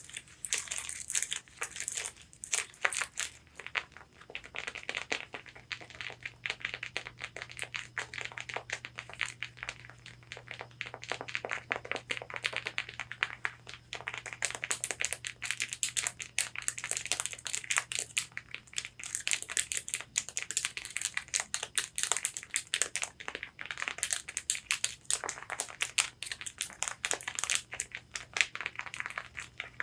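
Long fingernails tapping and scratching on a corset's fabric bodice: a rapid, uneven stream of sharp clicks mixed with scratchy rustling.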